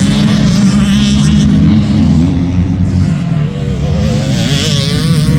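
Motocross bike engines revving, their pitch rising and falling as the throttle opens and closes.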